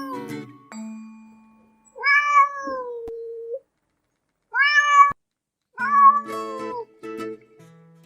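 A cat meows three times, each a short call that rises and then falls in pitch, over background music with held notes.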